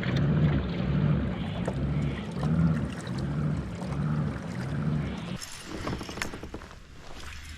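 Kayak moving through still water with a steady rhythmic stroke, about one and a half pulses a second. About five seconds in, the rhythm stops, leaving a few light knocks and clicks.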